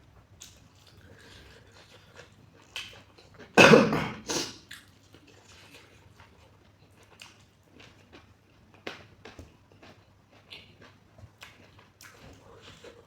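Eating sounds of a person working through a spicy curry meal: soft chewing with scattered smacking clicks. About three and a half seconds in comes a loud, short double burst of breath, louder than anything else.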